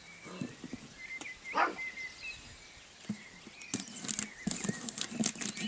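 Puppy squeaking and whimpering, with one louder yelp about one and a half seconds in, over light pattering and tapping.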